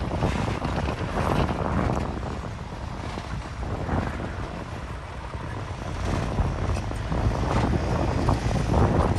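Heavy diesel earthmoving machinery running with a low rumble and irregular clatter, easing off in the middle and building up again near the end.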